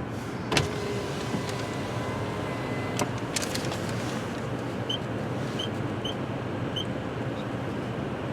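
Steady low rumble of a car waiting in a closed car wash bay before the wash starts. A sharp click comes about half a second in and another about three seconds in. A few short high beeps sound in the second half.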